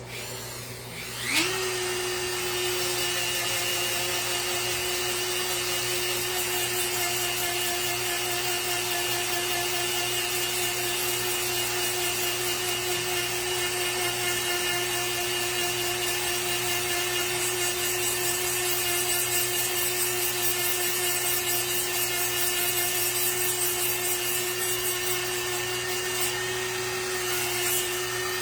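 Small handheld rotary tool spinning up about a second in, then running steadily at a high speed with an even whine as it takes material off the wood.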